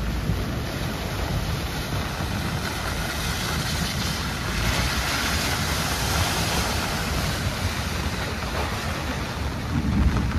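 Steady hiss of heavy rain with wind buffeting the microphone and a low rumble, swelling a little in the middle.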